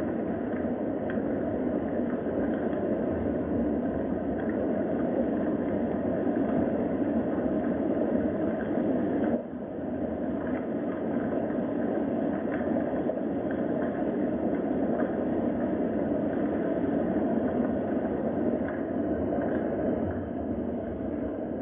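Steady rain noise with faint scattered ticks of drops. It dips briefly about nine seconds in.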